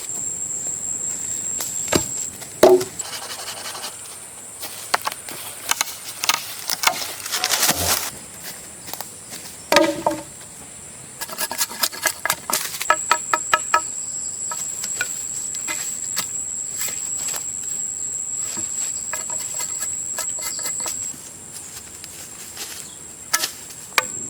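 A steady high-pitched whine that stops for a few seconds and then returns, over scattered clicks, taps and short rattling runs of ticks.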